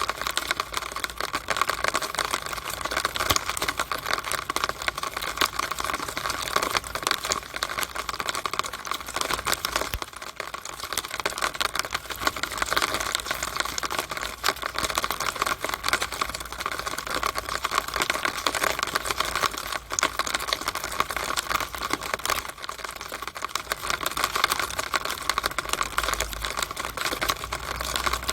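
Rainwater coming down a downspout: a dense, steady patter of rapid drips and ticks.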